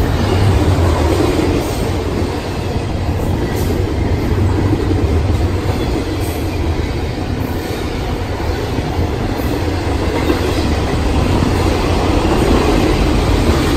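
Double-stack intermodal freight train passing at speed: the steady, loud rumble of loaded container well cars rolling on the rails, with a few faint clicks.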